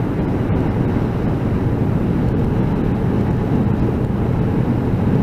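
Motorcycle engine and wind rush heard through a microphone inside the rider's helmet, running steadily while cruising.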